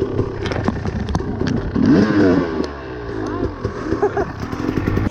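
Dirt bike engine revving and accelerating, its pitch rising and falling several times, loudest about two seconds in.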